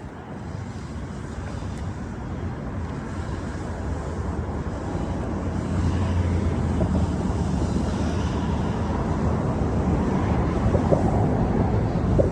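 A low engine rumble that swells over several seconds, from about a third of the way in, and then holds steady, with some wind on the microphone.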